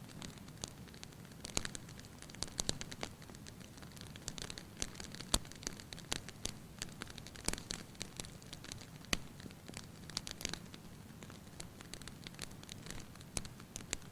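Fire crackling in a fireplace: irregular sharp pops and snaps over a low steady rush of flame, with the loudest pop about five seconds in.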